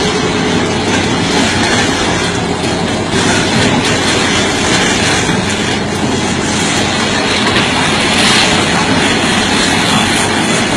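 Heavy machinery crushing big rocks on a truck: a loud, steady clatter of steel on rock with rapid knocks throughout.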